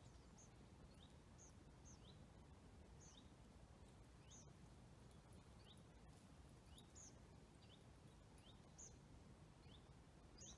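Faint, short, high-pitched chirping calls of small songbirds, about two a second, some notes higher than others, over a quiet outdoor hiss.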